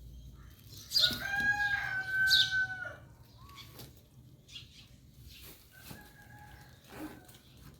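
Rooster crowing: one loud, drawn-out crow about a second in that lasts about two seconds, then a fainter crow about six seconds in.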